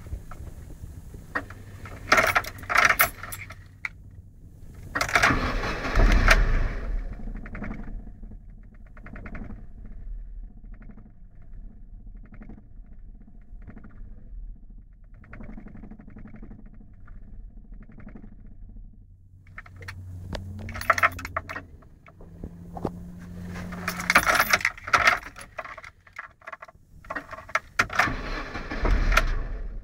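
Car engine idling steadily, with several loud bursts of clattering rattle at irregular intervals over the low idle hum.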